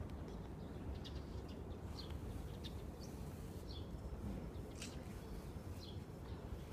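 A few short bird chirps, spaced out one at a time, over a steady low background rumble.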